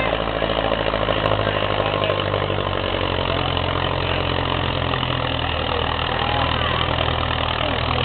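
Tractor engine idling steadily, its note shifting slightly a couple of times.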